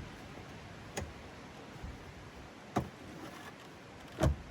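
A few short knocks and clicks from small car parts and bolts being handled and set down, three separate strikes with the last one, near the end, the loudest and dullest.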